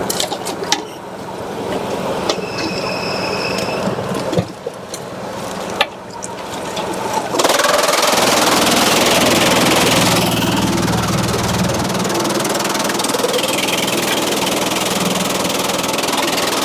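Engine-driven machinery running steadily, with a few clicks in the first seconds; a loud, even rushing noise joins about seven seconds in and carries on.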